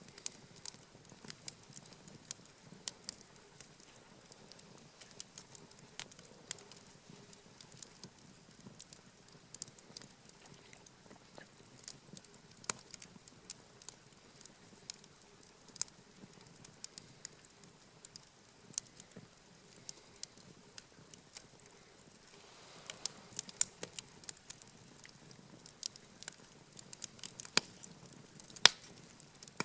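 Wood campfire crackling, with irregular sharp pops and snaps that come thicker in the last few seconds and one loud pop near the end.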